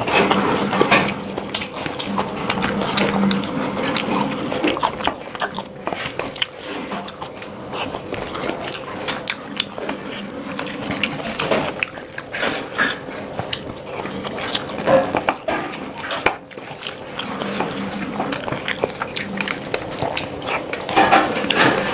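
Close-miked chewing and wet mouth sounds of a person eating rice and paneer curry by hand, with dense small clicks and smacks, and fingers squishing and scraping food on a steel plate.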